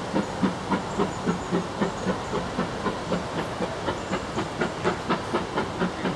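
GWR 56xx 0-6-2 tank steam locomotive moving slowly, an even rhythm of beats about four to five a second over a steady hiss of steam.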